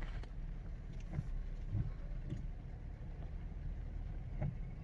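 Steady low road and engine rumble heard from inside a moving car's cabin, with a few faint knocks scattered through it.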